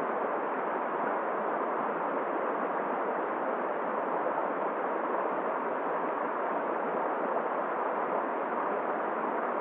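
Steady rushing noise of a river's flowing water mixed with wind, even and unbroken throughout.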